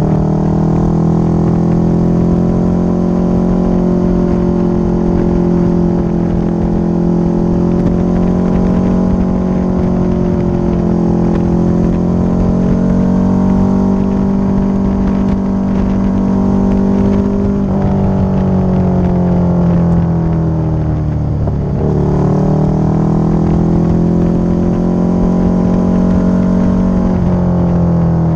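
Motorcycle engine running under way, its note holding steady, then falling for a few seconds as the bike slows. A gear change comes about two-thirds of the way in, after which the note climbs again as it accelerates, with another shift near the end.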